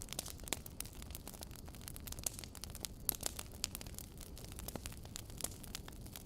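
Wood fire burning: a steady low rumble of flames with many sharp, irregular crackles and pops, several a second.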